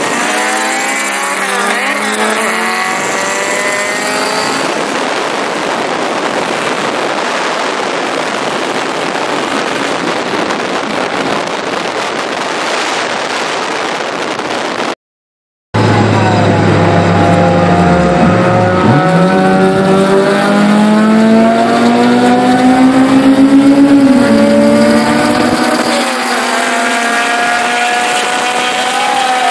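Car engines at full throttle in a street race, heard from inside a moving car with heavy wind rush over the microphone. After a brief dropout about halfway, one engine note climbs steadily in pitch, drops at a gear shift, and climbs again.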